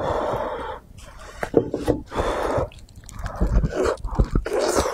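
Close-miked eating of spiced sheep's head meat: chewing with sharp mouth clicks, broken by three longer rushes of noisy, panting-like breath.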